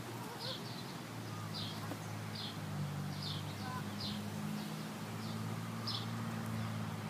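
A bird chirping: short high notes repeating roughly once a second, over a low steady hum.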